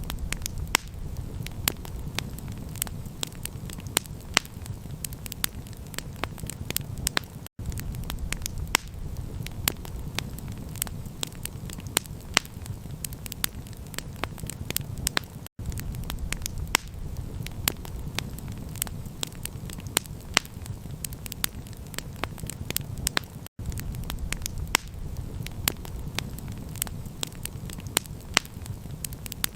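Campfire crackling: a dense run of sharp pops and snaps over a steady low rumble. The sound cuts out for an instant about every eight seconds.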